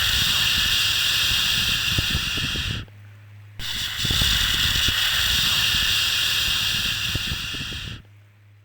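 Long shushing 'shhh' sounds, as used to soothe a baby. The first ends about 3 seconds in, and after a brief pause a second one runs until near the end. A faint low hum can be heard in the gaps.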